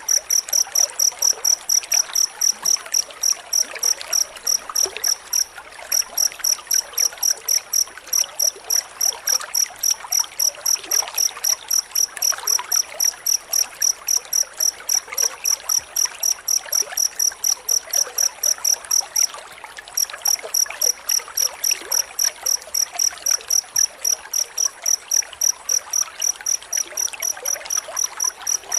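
Cricket chirping in a fast, steady train of high-pitched chirps, about three to four a second, with two brief breaks, over a faint background hiss.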